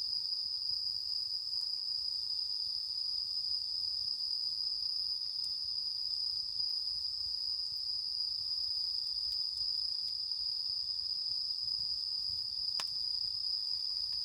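Crickets or similar night insects calling in a steady, unbroken high-pitched trill, with one faint click near the end.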